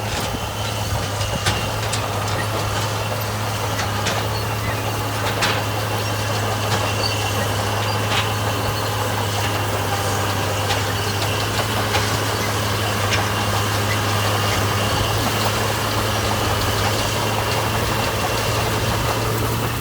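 Heavy diesel construction machine engine running at a steady speed with a constant low hum, with scattered sharp clicks over it.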